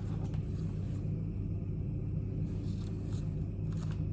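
A steady low mechanical hum, with a few faint light clicks a little past the middle.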